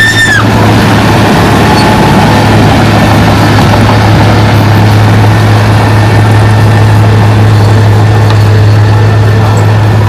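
Heavy earthmoving machine's diesel engine running steadily at a constant pitch, with a brief high squeal at the very start.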